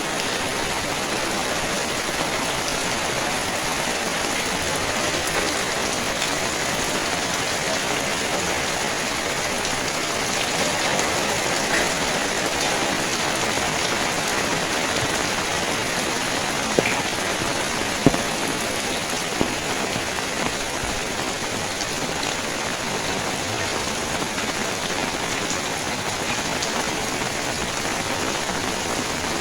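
Steady rain falling, a continuous even hiss. A few short sharp clicks stand out about two-thirds of the way through.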